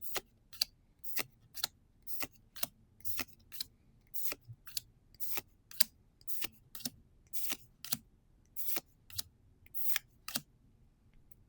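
Trading cards from a freshly opened booster pack being slid and flipped one at a time. There are about twenty short, crisp swishes at a steady pace of roughly two a second, stopping shortly before the end.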